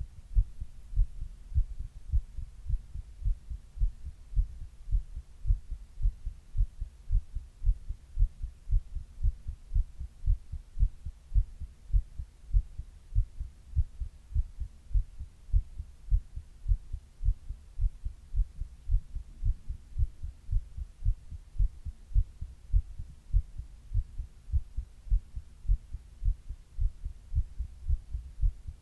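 A human heartbeat heard up close: a steady, even rhythm of low-pitched lub-dub thumps, about one beat a second.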